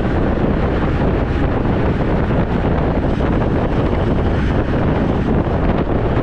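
Wind buffeting the microphone on a moving road bike, a steady loud rumble that does not let up.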